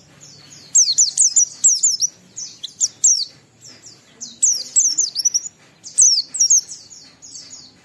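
White-eye (pleci) singing hard: fast runs of high, down-slurred whistled notes, coming in four bursts with short pauses between.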